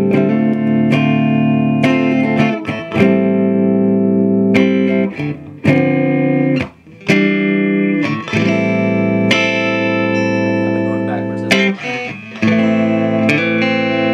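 Electric guitar chords played through the Earthquake Engineering Atlas15, a 15-watt cathode-biased EL84 valve amplifier. Each chord is struck and left to ring, changing about every second or so, with short gaps between some of them.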